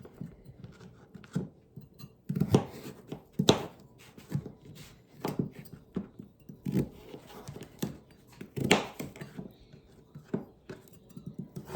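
Kitchen knife cutting through a raw sweet potato and knocking down onto a cutting board, roughly one irregular stroke a second. The knife is dull enough that it needs sharpening.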